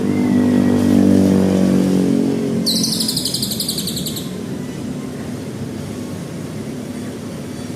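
A lovebird gives one rapid, high trill lasting about a second and a half, a few seconds in. Under it there is steady background noise, and a motor hum that fades out over the first two seconds.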